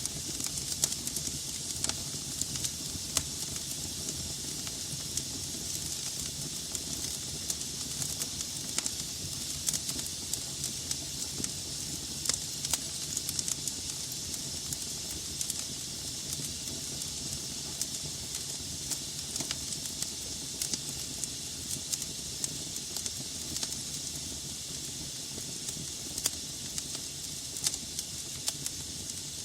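Wood fire burning in a fireplace: a steady hiss with irregular crackles and occasional sharper pops from the burning logs.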